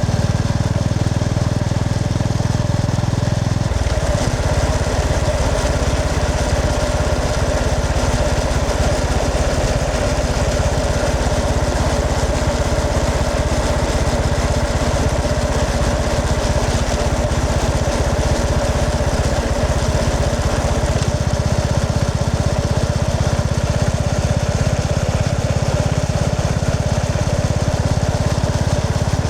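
Honda GB350S's air-cooled single-cylinder engine running steadily while riding, its exhaust pulsing; the engine note changes about four seconds in.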